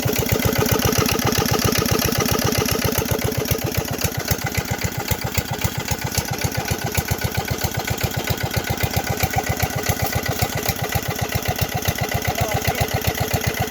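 'Peter' stationary diesel engine running steadily, with an even, unbroken beat of firing strokes.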